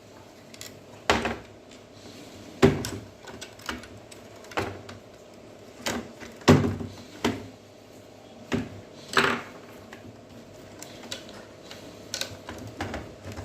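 Irregular clicks and knocks of an LED TV's plastic casing and parts being opened up and handled, over a faint steady hum.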